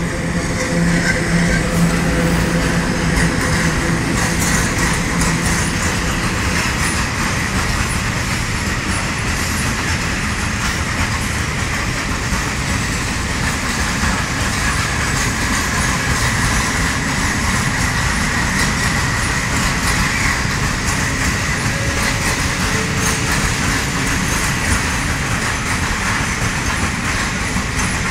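Freight train of open wagons behind an electric locomotive rolling past close by: steady wheel-on-rail noise throughout. A low hum from the locomotive fades in the first few seconds as it goes by, and a thin high whine runs through it.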